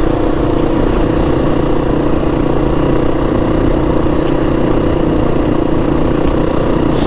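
Dirt bike engine running at a steady speed while riding, a loud even drone that holds one pitch throughout.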